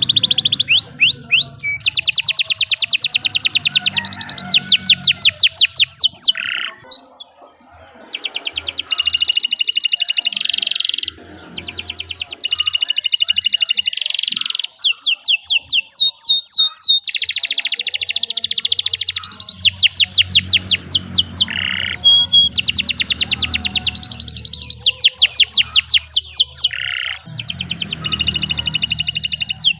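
Domestic canary singing a long, continuous song of fast rolling trills, switching from one trilled phrase to the next every second or two, with a few short breaks.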